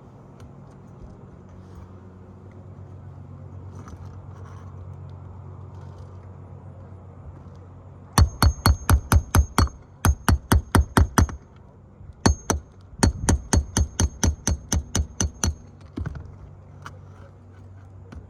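Hammer driving roofing nails into asphalt shingles: quick runs of sharp, ringing strikes, about six or seven a second, in four bursts, one per nail. They start about eight seconds in, over a steady low hum.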